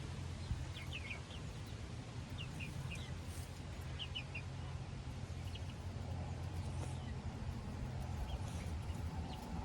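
Chickens giving short high chirps in a few quick clusters of two or three notes, over a steady low rumble.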